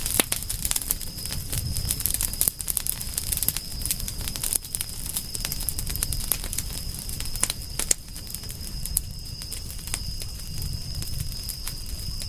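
Wood fire crackling and popping in irregular sharp snaps over a low rumble of the flames, with a thin steady high-pitched tone in the background.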